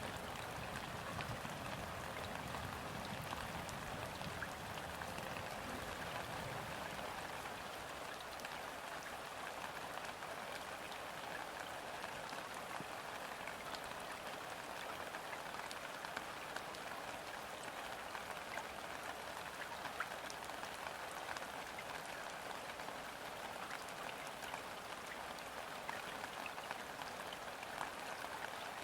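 Steady rain falling on a river's surface: a dense, even patter of small drops hitting the water, with no wind. A low rumble of distant thunder dies away over the first several seconds.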